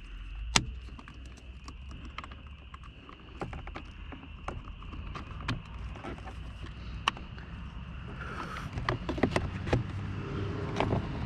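Scattered light clicks and knocks of plastic interior door trim being handled and fitted, over a low steady hum.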